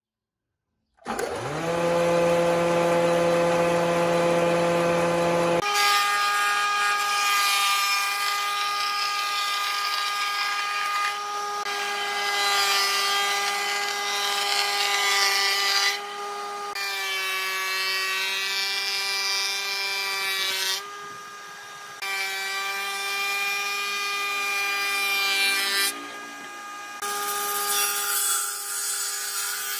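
Small electric power tool's motor running with a steady whine, spinning up quickly about a second in. The pitch jumps higher near six seconds, and the sound dips briefly every few seconds.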